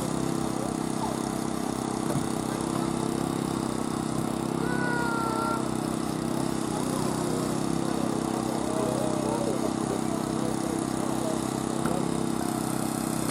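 An engine running at a steady speed, a constant drone with no revving, such as the power unit that drives hydraulic rescue tools. A few faint short squeaks sound about five seconds in.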